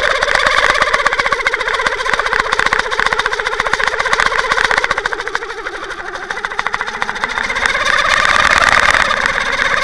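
Engine of the trolling watercraft running steadily, heard underwater through the towed camera's housing as a loud, muffled, rapid pulsing with little bass. It eases off about five seconds in and picks back up near the end.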